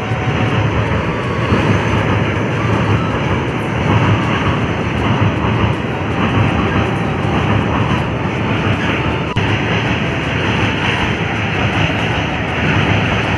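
A train passing close by on the railway line, a loud, steady noise of the train running on the track.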